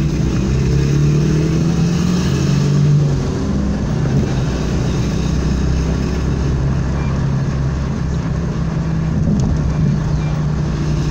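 Car engine running at a steady cruising pace, heard from inside a moving car's cabin. Its hum wavers a little in pitch over the first few seconds, then holds steady over road noise.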